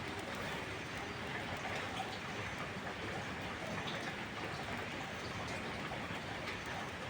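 Heavy rain falling steadily, a dense even hiss with scattered faint ticks of single drops.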